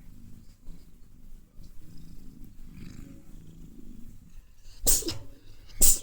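Domestic cat purring steadily while being brushed, a low continuous rumble. Near the end come two loud, sharp bursts about a second apart.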